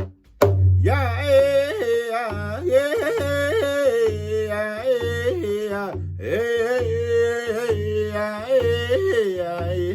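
Powwow-style singing: a high-pitched male voice sings held, wavering vocables over a steady drumbeat of about two beats a second, after a brief pause near the start.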